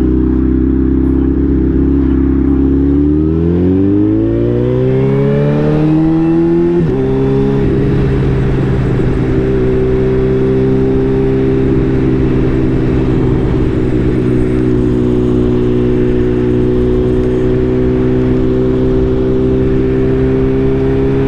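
2019 Suzuki Hayabusa's inline-four engine under way, rising in pitch as it accelerates, then dropping sharply at an upshift about seven seconds in. After the shift it holds a steady cruise over road and wind noise.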